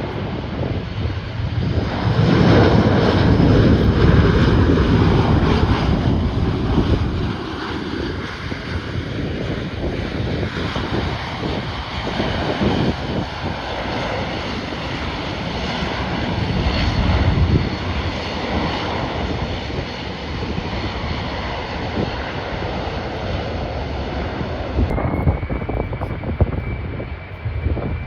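Airliner's engines passing close, loudest about two to seven seconds in, with a steady high-pitched turbine whine that runs on after the loudest rush.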